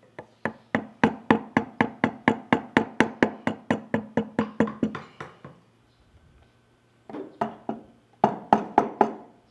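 A mallet tapping a carving chisel into wood, about four strikes a second for some five seconds. After a short pause come two brief runs of a few strikes each near the end.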